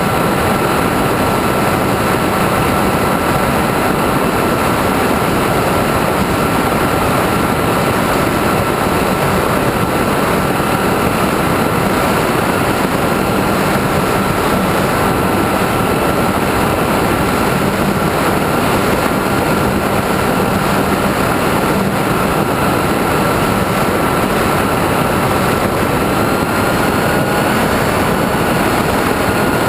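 Onboard sound of a radio-controlled aeroplane in flight: a loud, steady rush of wind and propeller noise with a constant motor whine, rising slightly in pitch near the end.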